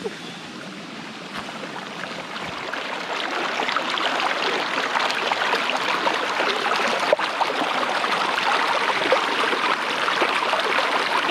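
Rain starting to fall on the surrounding forest leaves, a dense pattering that swells over the first few seconds and then holds steady.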